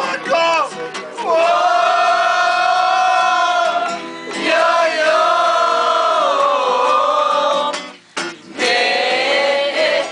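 A group of voices singing together, holding long drawn-out notes in two long phrases, with a short pause about eight seconds in before the next phrase starts.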